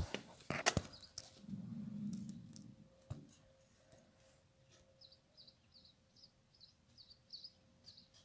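A few sharp clicks and knocks and a brief low rumble, then a small bird chirping in short high notes, about three a second, over the last few seconds.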